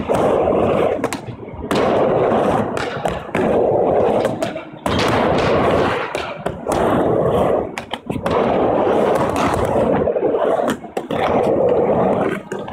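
Skateboard wheels rolling back and forth on a wooden mini ramp, in loud passes of a second or two. Each pass is broken by a short dip with clicks or knocks as the board turns at the top.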